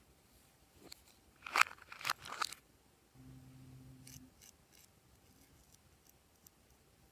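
Slime being handled: a cluster of crackly, sticky tearing and crunching noises, then a brief low hum about three seconds in, and scattered faint clicks.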